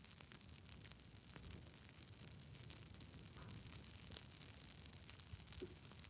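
Wood campfire burning, with many small irregular crackles over a faint steady low rumble.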